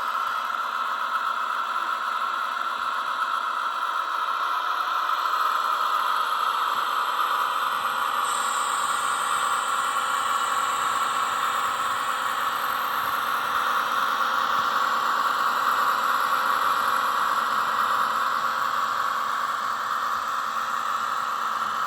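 Zimo sound decoder playing the diesel engine sound of an ÖBB class 2067 shunting locomotive through the small speaker of a Roco model locomotive, running steadily during shunting. A thin high whine joins about eight seconds in and fades after a few seconds.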